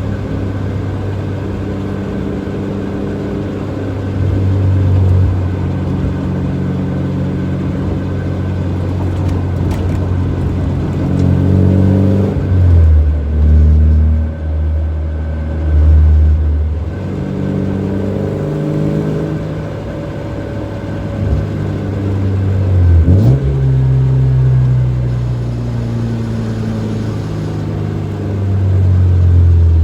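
Nissan 240SX (S14) engine and HKS Hi-Power exhaust heard from inside the cabin while driving: the engine note rises and falls through the revs with a gear change, with a deep low drone at times.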